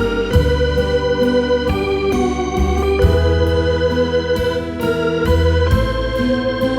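Background music led by an electric organ, sustained chords changing every half second or so over a steady bass line.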